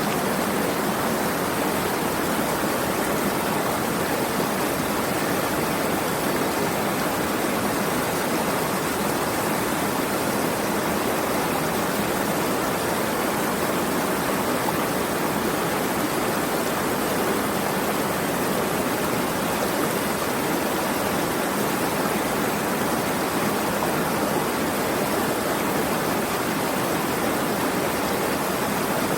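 Running water: a steady, even rush with no single splashes or drops standing out.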